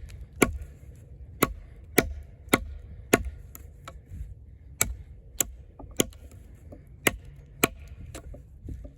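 A heavy fixed-blade camp knife with a thick AUS-10 steel blade chopping into wood: about ten sharp strikes, roughly two a second, with two short pauses between runs, each blow biting deep into the wood.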